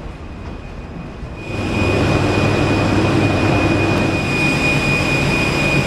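Steady whine and rumble of a parked airliner's systems, starting suddenly about a second and a half in, with a constant high-pitched tone over a low hum.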